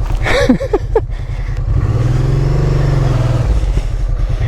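Honda Transalp 650's V-twin engine revved hard while the bike is stuck in deep mud, trying to power out. The revs are held for about two seconds, rising and then falling in pitch, and drop back near the end.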